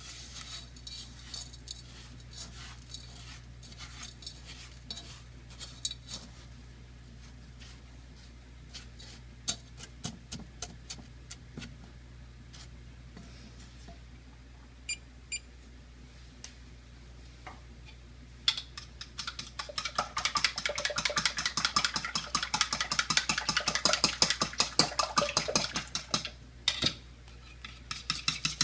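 A utensil stirring sugar as it melts in a hot pan for caramel: scattered taps and scrapes at first, then about two-thirds of the way in several seconds of fast, continuous stirring with rapid scraping clicks against the pan. A low steady hum runs underneath.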